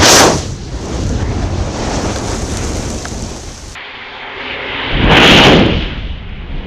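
A large mass of burning matches, a steady rushing noise broken by two loud whooshing flare-ups, one at the start and one about five seconds in.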